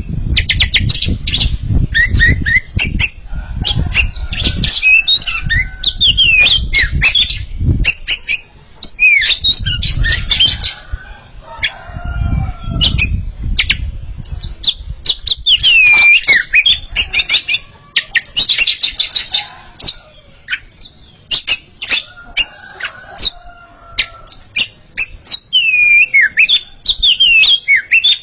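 A pair of oriental magpie-robins singing against each other in a fast, unbroken run of varied whistles, rapid chattering notes and sharp descending slurs. Bouts of low thumping sound under the song in places.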